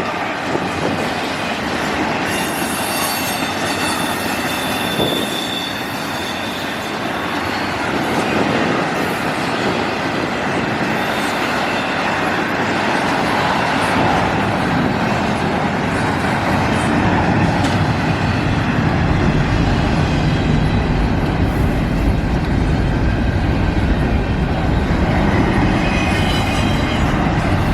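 Freight train of intermodal container cars rolling past, with steady wheel-and-rail noise and clickety-clack. Thin high wheel squeals come in a couple of seconds in and again near the end, and a low rumble grows louder from about two-thirds of the way through.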